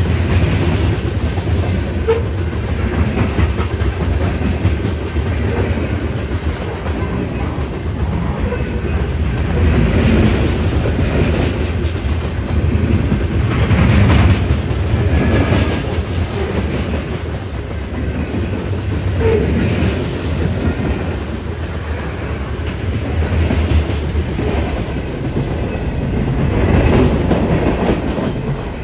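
Freight train's cars rolling past, steel wheels clacking over rail joints in a steady rumble.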